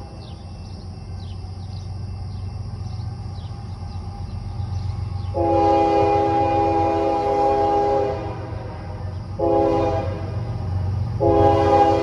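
Locomotive horn sounding a chord of several notes, in a long, a short and a long blast. With the long blast just before, this follows the long-long-short-long pattern for a grade crossing. Under it, the low rumble of the approaching train grows louder.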